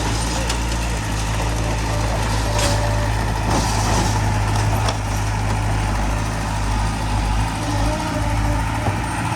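Heavy diesel earthmoving machinery engine running steadily under load, with a few brief knocks in the first half.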